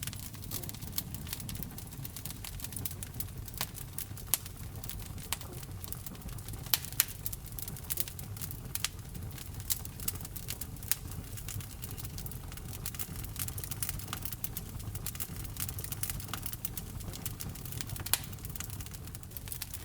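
Wood fire in a fireplace burning, with irregular sharp crackles and pops over a low steady rumble of the flames; a few louder pops near the middle and again near the end.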